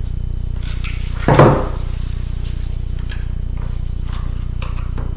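A single dull knock about a second and a half in, with a few faint clicks of small parts and tools being handled during laptop disassembly, over a steady low electrical hum.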